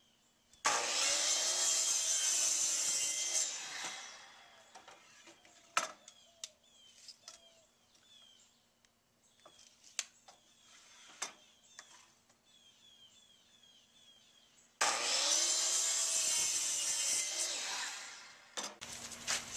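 Power saw cutting wood twice, each cut lasting about three seconds before the blade winds down; these are the two side pieces of a birdhouse being cut to 5 inches. Scattered clicks and knocks between the cuts.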